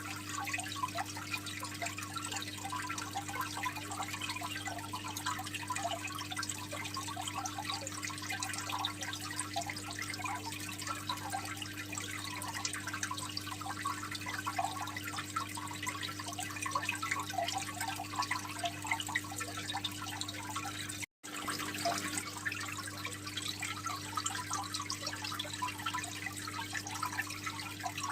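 Water trickling and splashing steadily in a home aquarium, as from a filter outlet, over a steady low hum. The sound cuts out for an instant about two-thirds of the way through.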